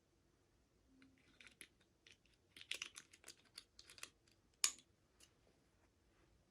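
Light taps, clicks and crinkles of small plastic toy pieces and packaging being handled, clustered in the middle, with one sharper click about two-thirds of the way through.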